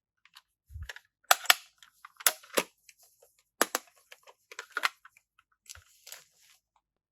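Plastic toy pieces and packaging handled during an unboxing: a string of sharp clicks and taps, loudest in the first half, with a brief crinkly rustle near the end.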